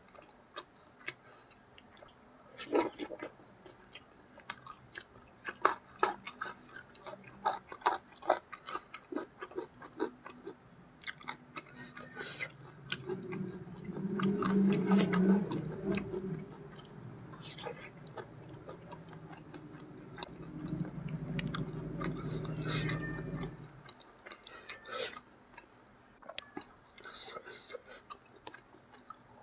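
Close-miked chewing of fish and rice, with wet mouth clicks and lip smacks. Twice near the middle, a louder low hum lasts a few seconds.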